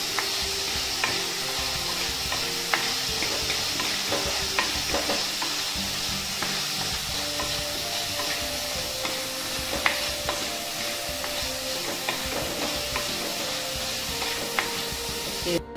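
Small onions, tomato and green chillies sizzling in hot oil in a clay pot while being stirred with a wooden spatula, with frequent light knocks and scrapes of the spatula against the pot. The sizzle cuts off abruptly near the end.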